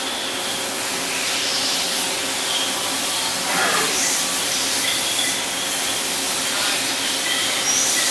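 Steady hissing noise of running machinery, with brief sweeping tones about a second in and again about three and a half seconds in.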